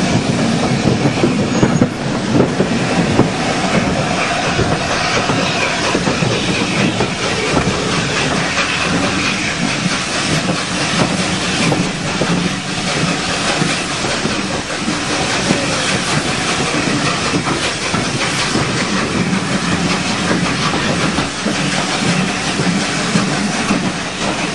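Train hauled by the LNER A4 steam locomotive Bittern running along the line. Its wheels make a steady noise on the rails.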